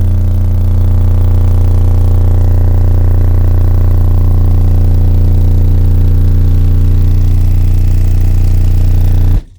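Car subwoofers playing a steady 30 Hz test tone from a tone-generator app, a very loud unchanging bass drone with many overtones, used to find the frequency the enclosure is tuned to. It cuts off abruptly near the end.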